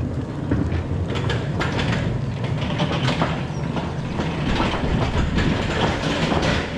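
Narrow gauge train running along the track, a steady rumble with irregular sharp clicks and knocks from the wheels and rail joints.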